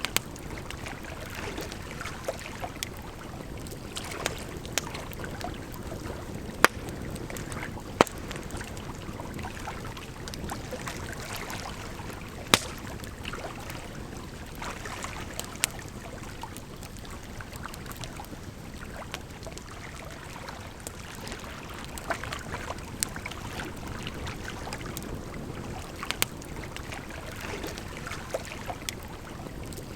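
Wood fire crackling, with sharp single pops at irregular intervals, over a steady wash of running water.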